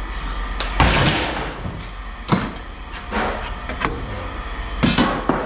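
Pieces of scrap metal clattering as they are tossed into bins while being sorted: a series of separate knocks and clanks, about six in all, over a steady low hum.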